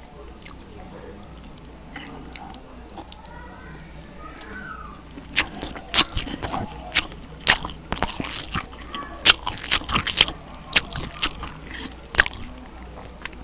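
Close-up eating sounds of a mouthful of rice noodles being chewed: quiet and soft for the first few seconds, then a dense run of sharp, wet mouth clicks and smacks from about five seconds in until near the end.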